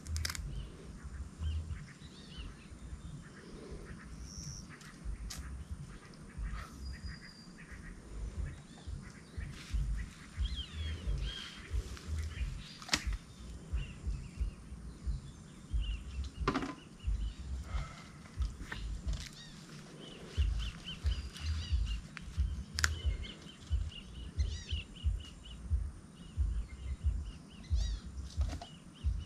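Wild birds calling in short chirps and trills, with a fast run of repeated chirps past the middle. Underneath is an uneven low rumble, with a few sharp knocks.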